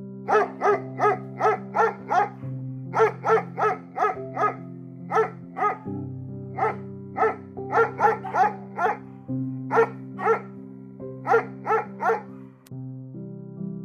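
A dog barking in quick runs of several barks, two to three a second, with short breaks between the runs, over background music of held chords.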